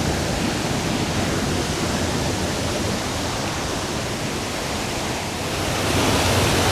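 Steady rush of a waterfall's cascading water, a little louder near the end.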